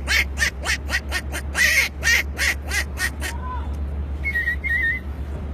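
A man imitating an animal call with his voice: a quick run of about fourteen short calls, about four a second, that stops just over three seconds in. A faint high warbling follows near the end.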